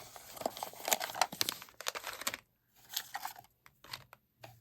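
Plastic packaging crinkling and tearing in quick crackly bursts as a small toy is unwrapped by hand, thinning out after about two and a half seconds to a few short rustles.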